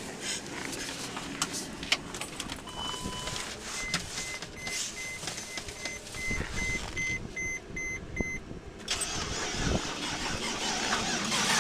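Starter cranking a frozen car engine that does not catch, its oil thickened by the extreme cold, while the car's warning chime beeps repeatedly. A steady hiss comes in near the end.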